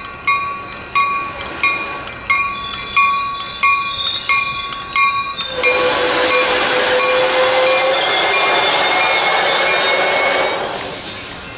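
A railroad crossing bell ringing in even strokes, about one and a half a second, until about five seconds in. Then a Caltrain commuter train, Bombardier bi-level cab car leading, rolls in close by with a rush of wheel noise and a steady squeal as it slows to stop at the station, easing off near the end.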